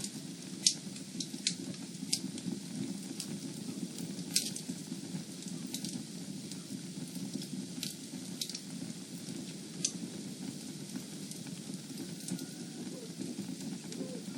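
Fire burning in a fireplace, with a steady low rush of flames and scattered sharp crackling pops every second or two. The loudest pop comes about a second in.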